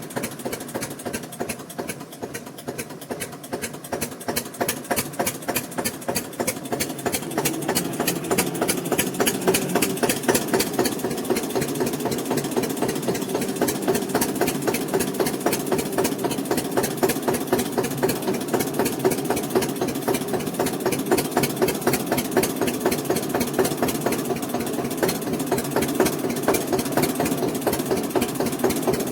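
Eicher tractor's diesel engine running with an even beat of exhaust pulses. It grows louder over the first several seconds, then holds steady.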